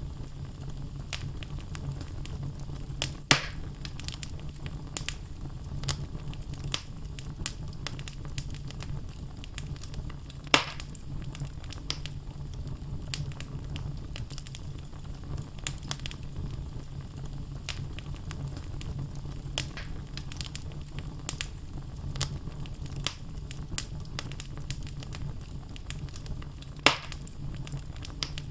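Wood logs burning in a fireplace: a steady low rumble of the flames with frequent sharp crackles and three louder pops, about 3 seconds in, about 10 seconds in and near the end.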